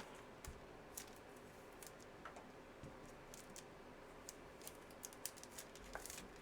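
Faint, scattered clicks and taps of trading cards being handled and set down on a table, a little more frequent in the second half, over near-silent room tone.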